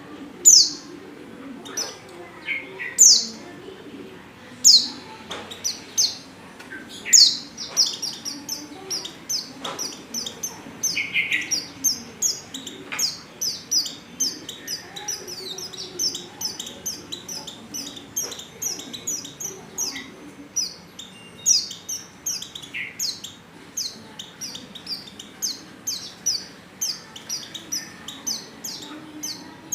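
White-eye (pleci) calling: short, high chirps, a few spaced ones at first, then a fast, steady run of several a second from about seven seconds in. This is offered as a female in breeding condition calling to a male.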